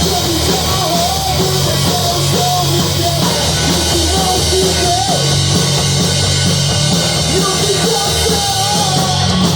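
Heavy rock band playing live, with distorted electric guitars, bass and drums and a wavering vocal or lead line over them.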